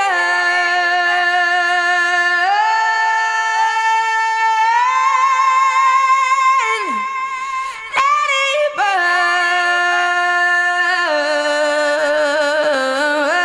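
A woman's voice singing long, held wordless notes with vibrato, sliding from one pitch to the next, with short breaks about seven and nine seconds in.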